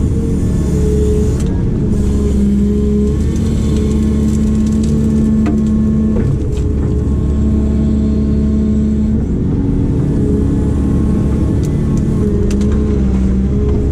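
Diesel engine of a heavy construction machine running steadily under work, its pitch stepping slightly up and down, with a few faint knocks.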